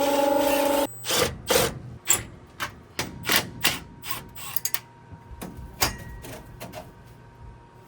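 A small electric motor hums steadily and cuts off suddenly within the first second. It is followed by a run of irregular metallic clicks, clanks and knocks as tools and fittings are handled, growing fainter toward the end.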